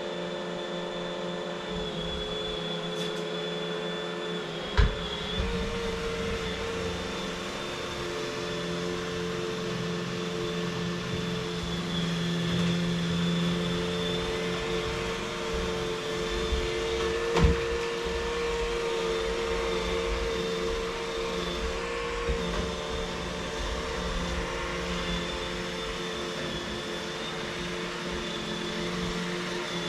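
Vacuum cleaner motor running steadily, its hum wavering slightly in pitch as the airflow changes, with two sharp knocks, about five seconds in and again about seventeen seconds in.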